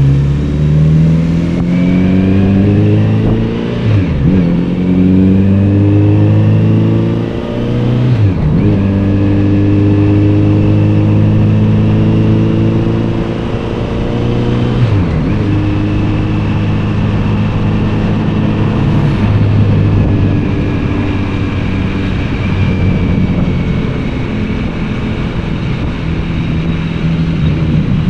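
Kawasaki Z900RS's inline-four engine and exhaust, heard from the rider's seat while accelerating: the engine note climbs, drops sharply three times as the gears are shifted up, then settles into a steady cruise with small changes in throttle.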